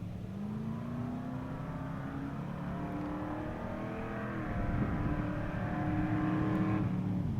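Race truck's engine accelerating hard under throttle, its pitch climbing twice and the sound growing louder and rougher, then dropping off sharply near the end as the throttle is released.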